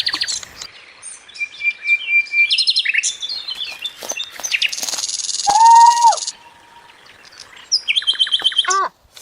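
Several songbirds chirping and singing, a busy mix of fast trills, short chirps and whistled notes; it all stops abruptly near the end.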